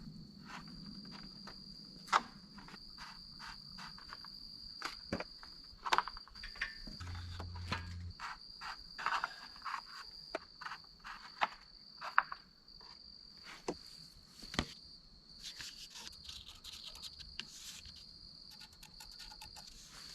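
A cricket trilling steadily at a high pitch, with scattered light clicks and taps from hand work, a few of them sharp and louder, around two seconds in and about twelve seconds in.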